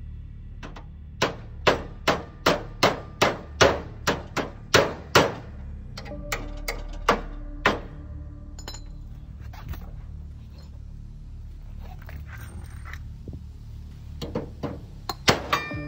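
Hammer striking the steel of a bent lawn mower deck: a quick run of hard blows, about two or three a second, then a few scattered strikes, and another run of blows near the end.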